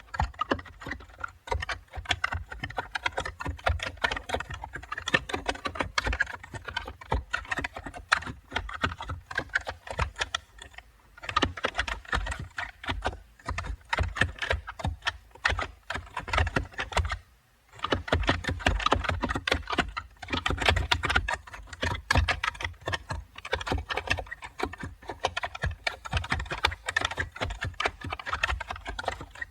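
Continuous fast typing on a computer keyboard, a dense run of key clicks that breaks off briefly twice, around eleven seconds in and again for about a second near the middle.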